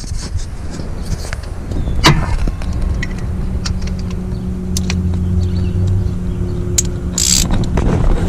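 A motor vehicle engine running steadily with a low hum, with a few sharp clicks and knocks from tool handling.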